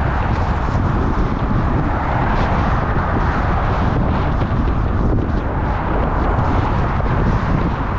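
Wind rushing and buffeting over the microphone of a camera carried on a moving bicycle, a loud steady rumble with no break.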